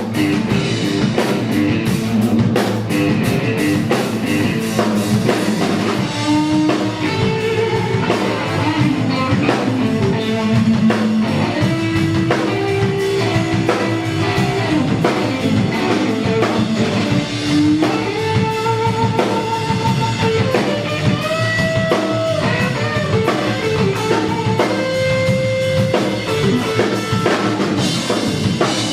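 Live rock band, electric guitar over a drum kit, playing a heavy riff-rock tune. The first few seconds are dense with cymbal hits; from about six seconds in, a lead guitar plays held notes that bend in pitch over the band.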